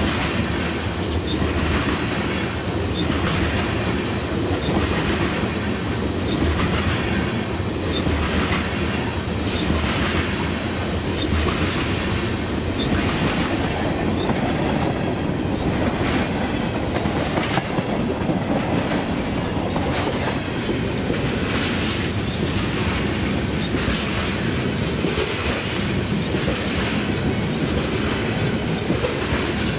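Freight cars of a long mixed freight train rolling past at close range: a steady rumble of steel wheels on rail, with clicks from the wheels crossing rail joints at a regular rhythm of about once a second.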